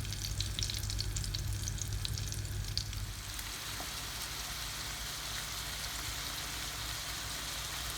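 Food frying in hot oil in a pan. There are many sharp crackling pops over a steady sizzle for about the first three seconds, then an even, quieter sizzle.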